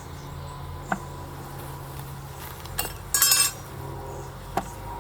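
Beehive frames being handled during an inspection: a few light clicks and knocks, with a short run of ringing clinks about three seconds in, over a steady low hum.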